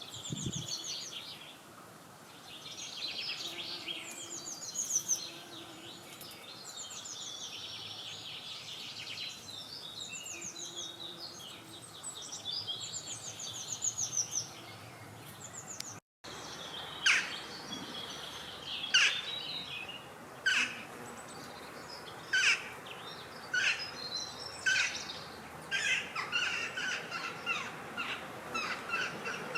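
Several wild birds singing in overlapping trills and chirps over a steady low background hiss. The sound cuts out for an instant about halfway through, after which sharp, falling calls repeat every second or so among the song.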